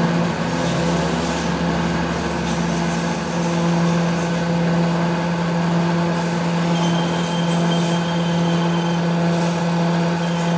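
A workshop machine's electric motor running with a steady, even hum.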